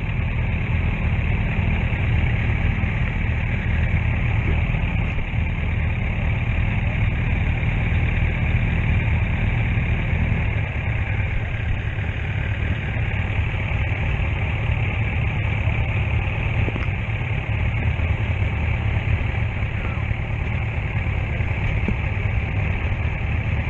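Motorcycle engine running steadily under way, with a constant rush of wind; the engine note shifts slightly lower about ten seconds in.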